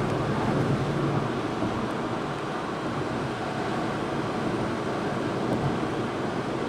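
Steady rumble of a car being driven, engine and road noise without distinct events.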